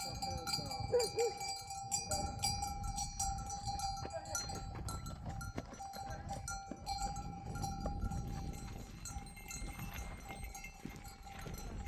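Bells on a flock of goats and sheep clanking and ringing continuously as the animals move.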